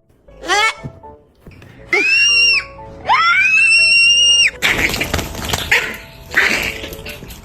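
Pet parrot calling: a short falling call, then two rising whistles that level off and hold, followed by a few seconds of harsh screeching, over background music.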